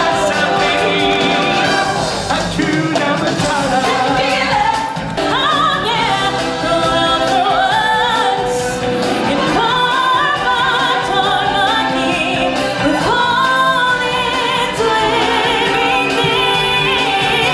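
Stage show music with singing: several voices over the music, with sliding and wavering high notes.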